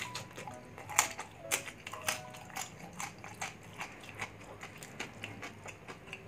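Close-up crunching and chewing of crispy bagnet, deep-fried pork belly with a crackling skin: a series of sharp crunches, loudest about a second in and twice more soon after, then lighter crunches as the chewing goes on.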